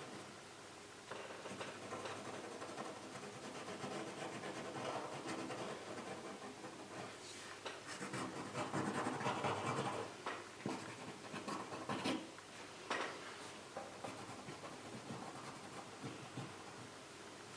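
Pen nib scratching across watercolour paper as lines are drawn, in runs of small strokes, louder for a couple of seconds around the middle and then a few short separate strokes.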